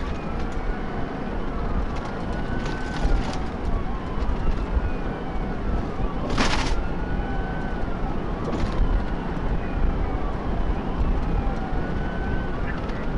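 Police car siren wailing, its pitch sweeping slowly up and down about every three seconds, over steady road and engine noise from the pursuing patrol car at speed. A short burst of noise cuts in about halfway through.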